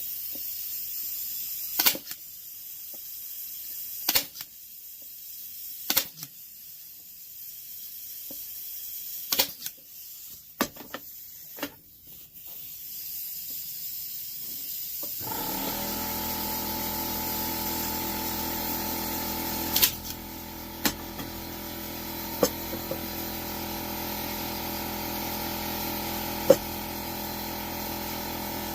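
A staple gun snapping again and again as it tacks material down: six sharp shots in the first dozen seconds. About halfway through, a steady machine hum starts and runs on under a few more shots.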